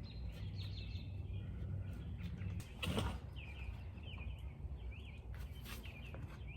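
Small birds chirping over and over, against a steady low background rumble. A brief rustling noise comes about three seconds in and a fainter one near the end.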